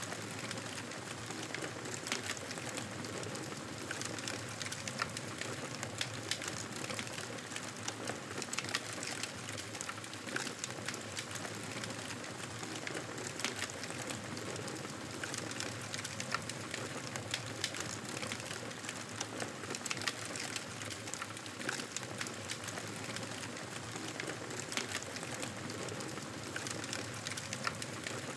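Campfire burning: a steady hiss with frequent sharp crackles and pops scattered irregularly throughout.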